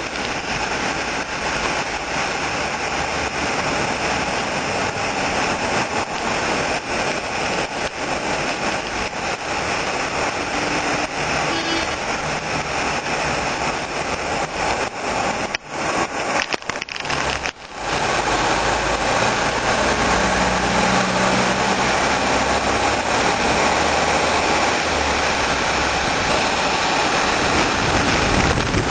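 Hailstorm with heavy rain pelting down, a dense, steady clatter of hailstones. A little past the middle the sound drops out briefly a few times, then comes back louder.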